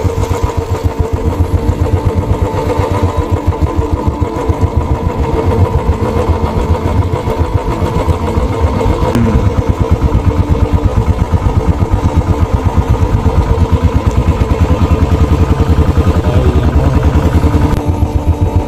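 A small engine running steadily with fast, even firing pulses, more regular from about halfway through.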